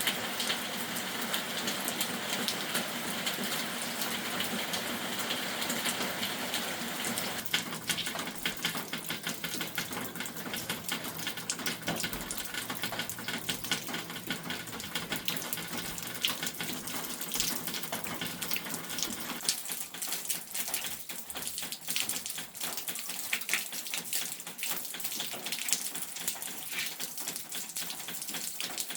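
Water running and splashing, steady for the first few seconds, then breaking into many separate splashes and drips.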